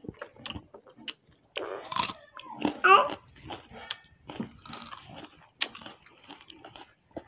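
Close-up eating sounds: chewing and biting of Maggi instant noodles eaten by hand, with crunchy bites of raw onion and small clicks. A brief high voiced sound about three seconds in.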